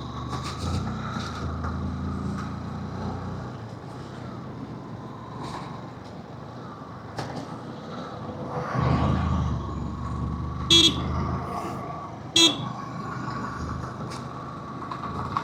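Vehicle engines and road noise on a hill road, heard from a riding motorcycle, with two short horn toots about a second and a half apart late on.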